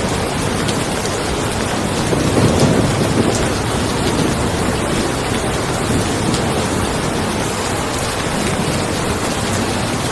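Steady rain falling on a car, with a low rumble of distant thunder swelling about two seconds in and fading over the next few seconds.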